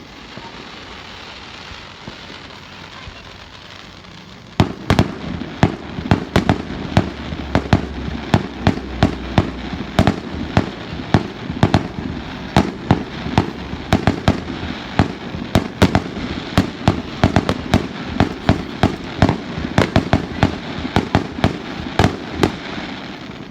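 Fireworks display: a steady hiss at first, then from about four and a half seconds in a rapid, continuous run of sharp bangs, two or three a second, with a low rumble under them for a few seconds in the middle.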